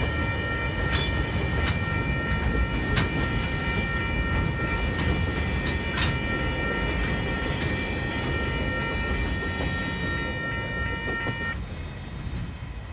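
Freight train's container wagons rumbling past, with occasional sharp wheel clicks on the rail. The level crossing's warning bell rings steadily over it and stops near the end, and the rumble fades as the last wagon clears the crossing.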